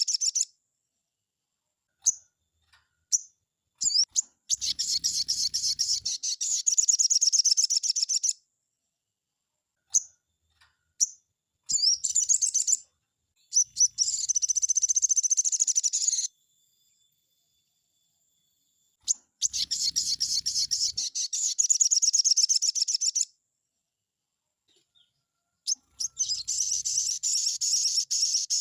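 Sogon songbird singing in long, fast, high-pitched bouts of about three to four seconds each, four times, with short single calls and pauses between them: the full, rapid song that bird-keepers use to stir up and tutor caged sogon.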